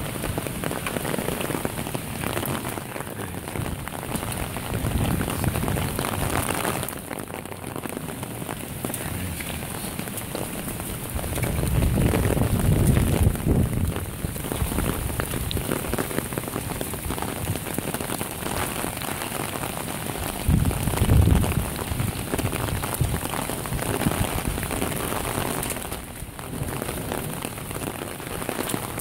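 Heavy rain falling steadily on a waterlogged lawn and concrete patio, a dense constant hiss of drops. Twice, around twelve and twenty-one seconds in, a louder low rumble swells up under the rain.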